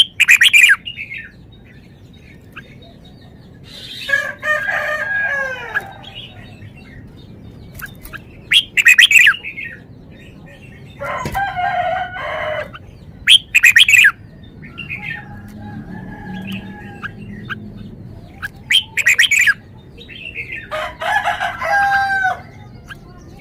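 Red-whiskered bulbul singing its song: short, loud, warbling phrases of a second or two each, about eight of them, separated by pauses of a few seconds.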